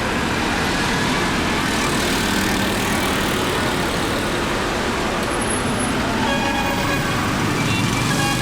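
Riding a motorcycle in city traffic: steady engine and road noise with surrounding traffic. About six seconds in, a steady pitched sound with several overtones joins in.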